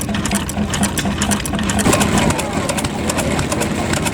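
Vintage stationary engines running with a fast, regular mechanical clatter and a pulsing low hum that drops away about halfway through.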